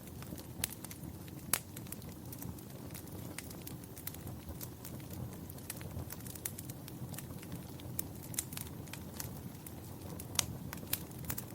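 Wood fire crackling: a steady low rumble of flames with irregular sharp pops and snaps, a few louder pops standing out.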